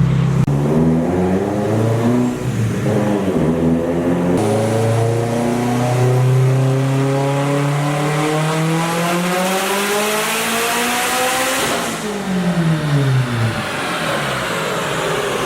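Turbocharged 2007 Subaru STI flat-four on a dyno: a full-throttle pull, the engine note climbing steadily in pitch for about seven seconds with a high turbo whistle rising above it, then the throttle is lifted and the revs fall away quickly.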